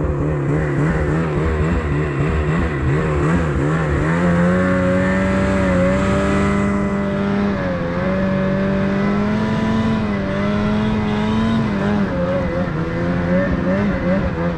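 An engine running loud and continuously, its pitch wavering up and down for the first few seconds, then holding nearly steady from about four seconds in, with small dips near six and eight seconds.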